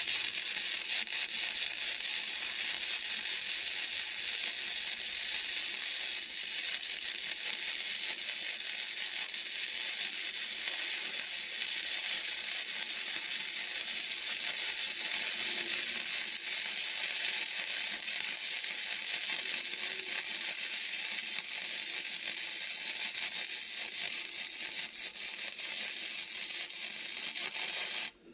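Gasless flux-cored MIG welder, set at 55 amps and 17 volts, running a bead: the arc gives a steady crackling hiss that cuts off abruptly near the end.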